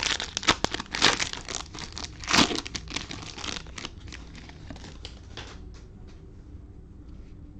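Cellophane wrapping of a trading card pack crinkling and tearing as it is opened by hand, a dense run of crackles that dies down about five and a half seconds in.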